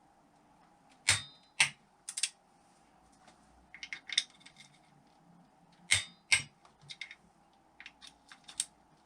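Metal tools and engine parts clinking and knocking on a workbench: irregular sharp clicks, some with a short metallic ring. The loudest come in pairs about a second in and about six seconds in.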